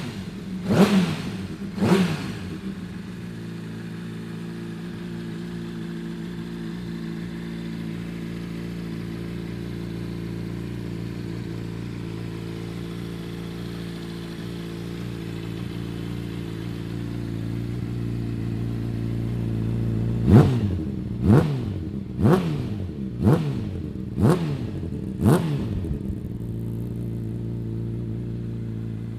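Honda CBR600RR's 600 cc inline-four engine idling steadily on its first run after an overhaul. It is blipped twice in the first two seconds, then six times, about once a second, from about twenty seconds in, dropping back to idle each time.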